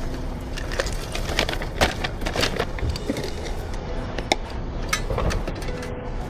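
Irregular clicks, taps and knocks of a barista handling coffee equipment and cups, over a steady low background hum.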